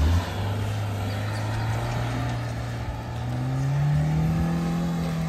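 Suzuki Jimny's 1.5-litre four-cylinder petrol engine pulling under throttle, its pitch climbing steadily for about four seconds and then starting to ease off near the end.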